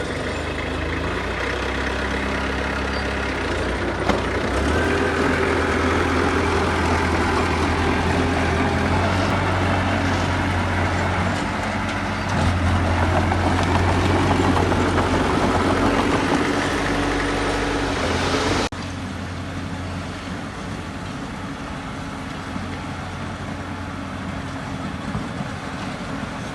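Heavy diesel construction machinery running steadily under load, with a strong low drone that grows louder about halfway through. Near the end of the second third the sound drops suddenly to a quieter, steady engine drone.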